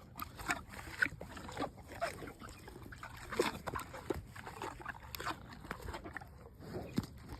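Holstein cow chewing a pear snack: irregular wet crunching, smacking and slurping.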